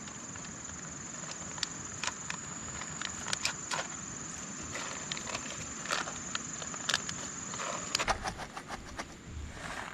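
A steady high insect drone that stops about eight seconds in, over scattered irregular clicks and knocks, with a quick run of knocks shortly after the drone stops.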